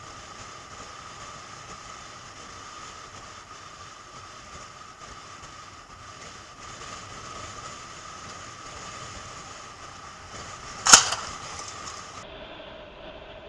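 Steady riding noise from a motorcycle-mounted camera: wind and road rumble with a faint steady whine, broken by one sharp crack about eleven seconds in.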